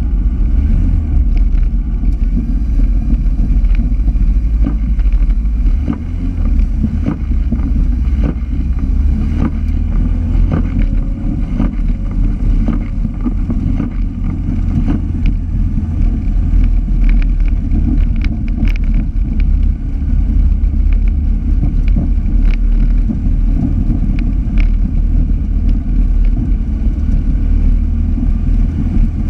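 Autocross car's engine running hard at racing speed, heard from inside the cabin as a loud, heavy low drone, with frequent sharp clicks and knocks scattered through it.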